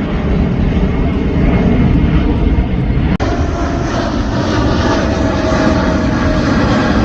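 Airplane engines giving a loud, steady deep rumble, heaviest in the bass, with a momentary break about three seconds in.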